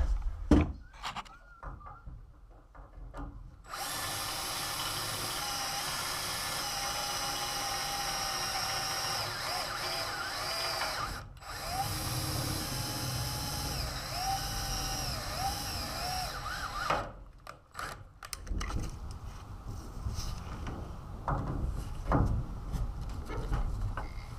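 Power drill running under load, boring a rivet hole: one run of about seven seconds and another of about five, with a brief stop between, its pitch wavering as the bit cuts. Near the end come a few scattered knocks and clicks.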